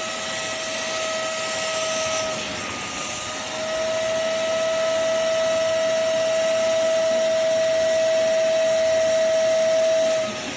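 Hoover CleanSlate Plus portable carpet and upholstery spot cleaner running, its suction motor giving a steady whine over a hiss. The whine fades about two and a half seconds in, returns louder a second later, and drops away near the end.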